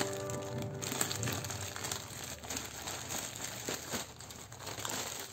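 Black plastic courier mailer bag crinkling in irregular crackles as hands handle it and tear it open.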